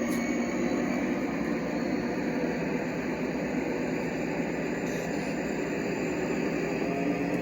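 G scale model train running steadily: a continuous rumble of its electric motor, gears and wheels on the track, with a faint high whine over it.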